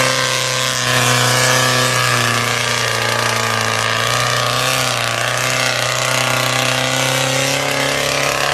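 Diesel truck engine running loudly at a steady speed, with a rough, noisy exhaust note.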